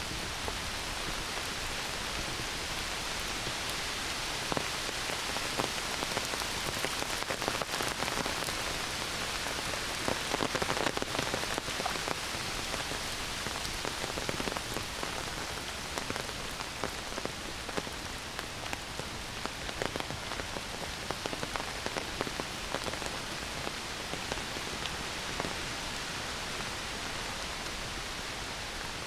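Heavy rain falling in a forest: a steady hiss with many close drops ticking, heaviest a few seconds before the middle.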